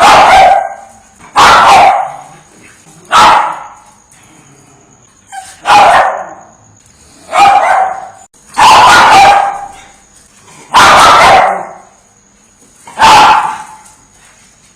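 A dog barking single loud barks, eight in all, one every second and a half to two seconds.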